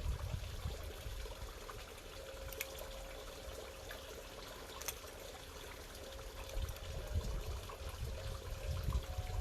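Pond water bubbling and trickling steadily, with two light clicks, about two and a half and five seconds in.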